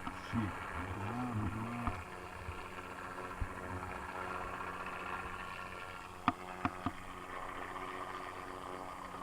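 An engine running steadily with an even, droning hum. A few short wavering low sounds come in the first two seconds, and three or four sharp clicks come about six seconds in.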